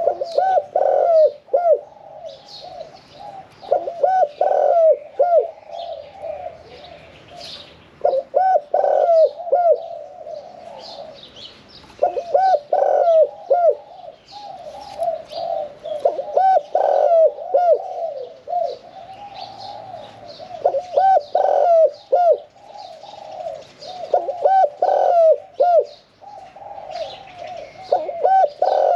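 Caged male spotted dove cooing, a medium-pitched call of the type keepers call 'yon, one kuk': a phrase of several low notes repeated about every four seconds. Small birds chirp faintly in the background.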